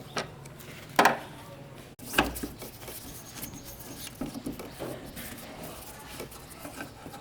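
Scattered knocks and clicks of objects being handled, the loudest about a second in, with a brief clatter soon after.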